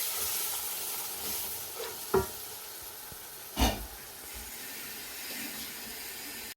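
Spice masala of garlic, ginger and green chillies sizzling steadily in a pot with a little water just added. Two sharp knocks, about two and three and a half seconds in.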